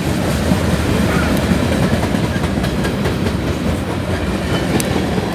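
Freight train cars rolling past: a steady rumble of steel wheels on the rails with a few faint clicks.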